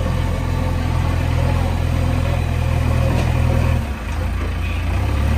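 JCB 3DX backhoe loader's diesel engine running steadily; about four seconds in its note dips briefly and then carries on at a slightly different pitch.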